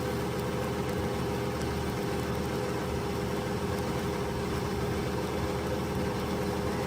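A motor-driven machine running steadily, with an even low hum and a steady higher tone.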